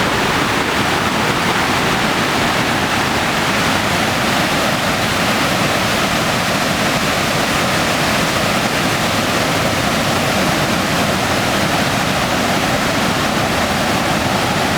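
Sogi Falls, a broad waterfall about 210 m wide, pouring steadily: a dense, unbroken rush of falling water.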